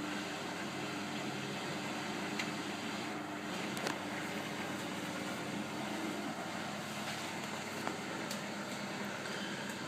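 Bendix 7128 front-loading washing machine running its wash cycle: a steady mechanical running noise with a faint low hum and a few light clicks.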